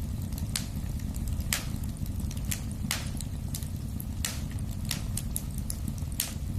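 Wood fire burning in a fireplace: a steady low roar of flames with sharp, irregular pops and crackles every half second or so.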